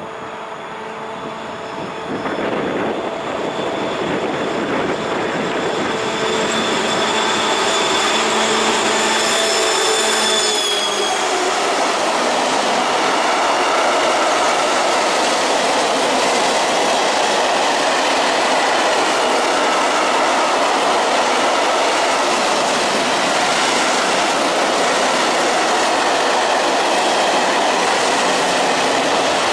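A BR232 (Soviet-built diesel-electric) locomotive draws near and passes with its engine running and a steady high whine over it; the tones stop about eleven seconds in. After that, a long string of open coal wagons rolls past with a steady loud rumble and wheel clatter.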